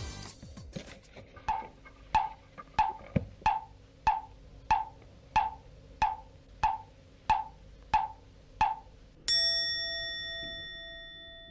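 Edited-in musical sound effect: a hollow wood-block tick about every two-thirds of a second, twelve in all, then a single bell-like chime that rings on and slowly fades.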